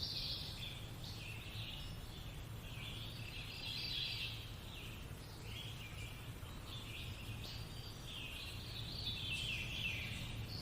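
Birds singing and chirping continuously in a nature-sounds background, with a steady low hum underneath.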